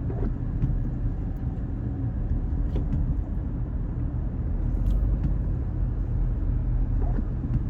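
Road and engine rumble inside a moving car's cabin, steady and low.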